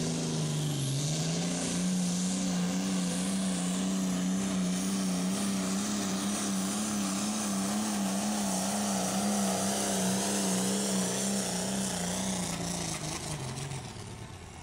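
A pulling tractor's engine running flat out under load, its pitch wavering as it pulls. The pitch dips about a second in and recovers, then falls away and fades near the end as the engine comes off the throttle.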